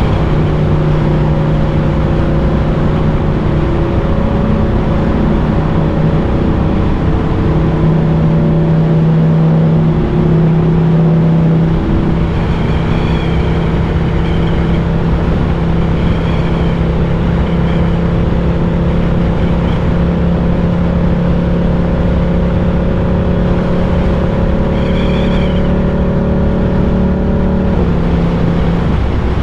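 Ducati Diavel 1260's 1262 cc L-twin engine running while the motorcycle is ridden at a steady speed, heard over a dense rush of wind noise. The engine note steps in pitch a few times, about a third of the way in and again near the end.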